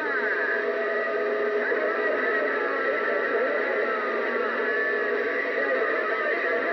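A radio receiver on the 27 MHz CB band giving a steady hiss with faint garbled voices and whistles that warble and glide up and down, the sound of weak distant stations coming in under the noise, with no clear transmission.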